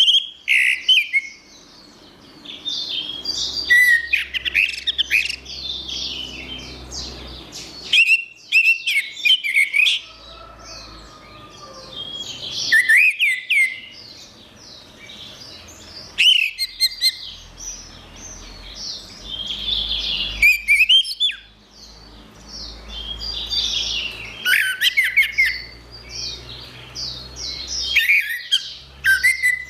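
Orange-headed thrush singing: loud, varied phrases of quick, sliding whistles and chirps, coming in bursts every few seconds with short pauses between.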